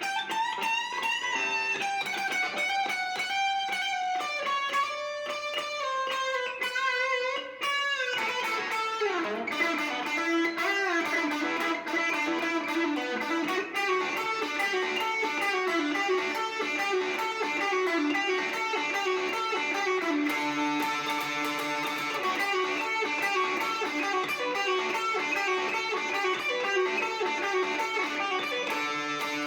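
Electric guitar, a 70s Classic Vibe Stratocaster played through a Marshall MG30DFX amplifier, jamming classic-rock lines. Single-note melodic phrases come first, then about eight seconds in a quick downward slide leads into faster, denser riffing with lower notes.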